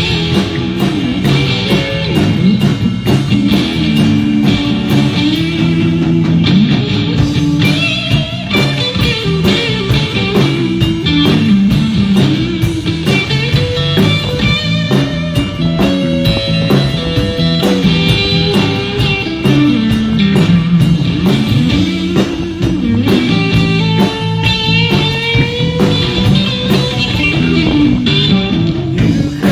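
Live band playing an upbeat rock-country tune, with guitar carrying a melody over bass and a drum kit.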